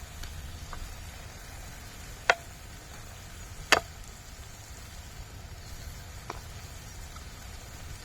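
Two sharp knocks about a second and a half apart, with a few fainter ticks, over a steady low background rumble.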